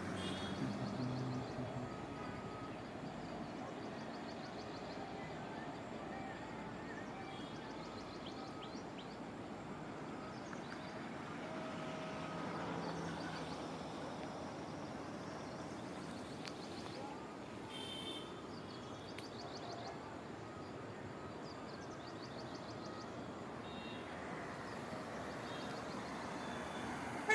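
Steady outdoor road ambience: a constant wash of noise, with faint short high chirps now and then.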